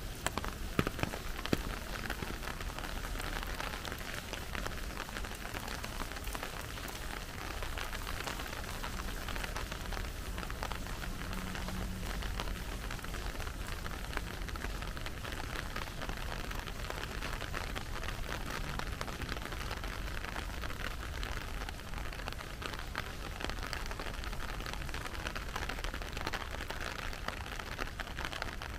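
Steady rain falling, a continuous hiss dense with small drop hits, with a few louder, sharper drop hits in the first two seconds.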